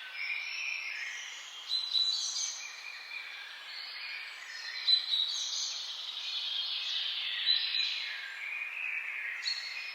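Several songbirds singing and chirping at once, overlapping high whistled phrases, with a few louder calls standing out about 2, 5 and 7.5 seconds in.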